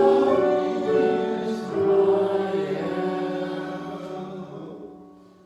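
A hymn sung with accompaniment, its last long held notes fading away.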